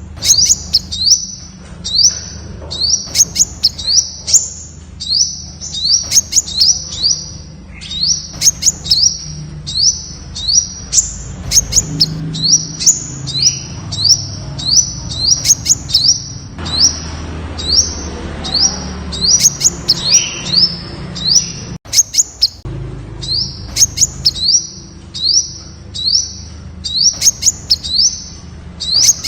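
Temminck's sunbird calling: a rapid series of short, high-pitched notes, each sweeping upward, about two a second.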